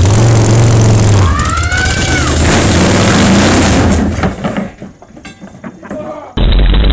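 A motor vehicle running loudly with road noise, a brief rising-and-falling whine about a second in. The sound drops away about four and a half seconds in, then a loud engine cuts back in abruptly near the end.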